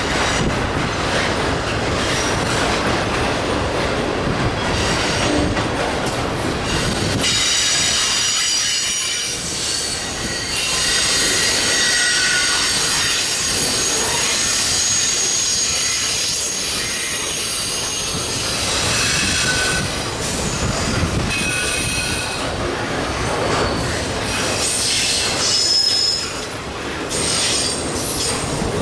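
Freight cars of a Union Pacific train rolling past with a clickety-clack over the rail joints. From about seven seconds in, high-pitched wheel squeal rides over the rumble.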